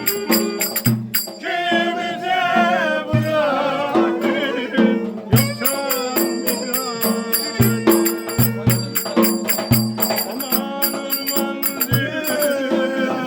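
Turkish folk dance music (oyun havası): a wavering, ornamented melody over a steady drone, with low drum beats and sharp jingling percussion keeping a dance rhythm.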